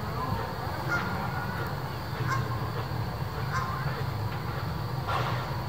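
Open passenger coaches and a wooden caboose rolling past on the rails with a steady low rumble. Several short calls rise over it, from riders or from geese.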